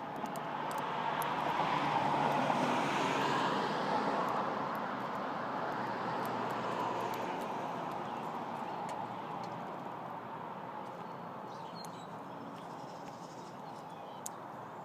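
A vehicle passing by, its noise swelling to a peak about two seconds in and then slowly fading away, with a few faint sharp ticks over it.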